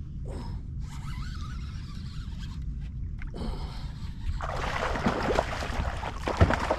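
Water sloshing and splashing around a small fishing boat over a steady low rumble. The splashing grows denser in the second half, and there is a sharp knock near the end.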